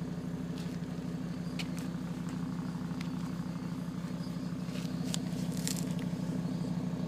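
Audi TT-RS 2.5 TFSI turbocharged inline five-cylinder engine idling steadily, heard with the bonnet open, with a few light ticks over the even running.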